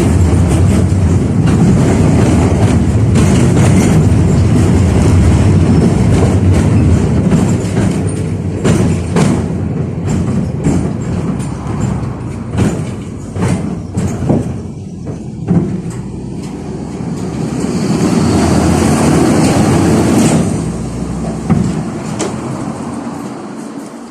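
71-605A (KTM-5A) tram running on its rails, heard from inside the car. First there is a loud steady rumble of wheels and running gear. After several seconds it eases into irregular clacks over the rail joints, swells again, and dies away near the end.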